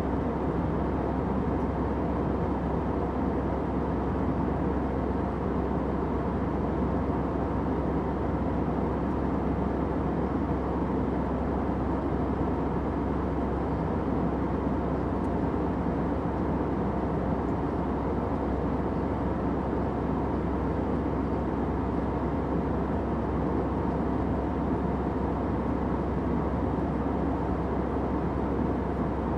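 Steady airliner cabin noise: an even rushing roar with a low, constant drone underneath, unchanging throughout.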